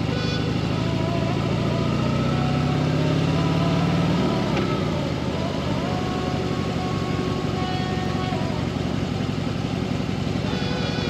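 Motorcycle engine under way, rising in pitch as it accelerates for about four seconds, then dropping sharply at a gear change and running steadily.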